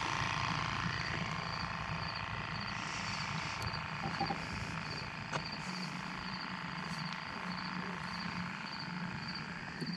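Crickets chirping in a steady, even pulse, over a constant low hum, with a few faint clicks.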